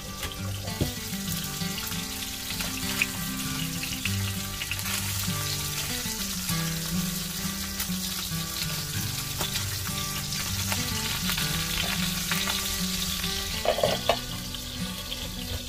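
Salmon frying in oil in a pan: a steady hiss and crackle of sizzling, with a few sharp clicks near the end.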